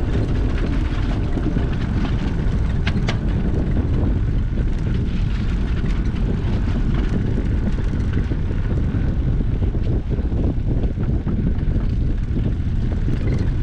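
Steady low rumble of wind buffeting the microphone while riding a bicycle, with a few faint clicks.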